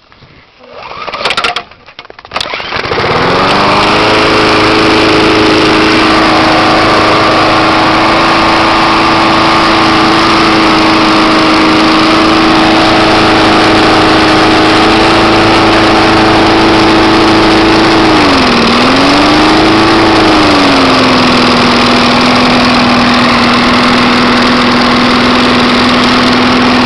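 Propane-fuelled Briggs and Stratton 4 hp lawn mower engine pull-started, catching about three seconds in and rising to a steady run. About two-thirds of the way through its speed dips briefly and recovers, then it settles at a slightly lower steady speed.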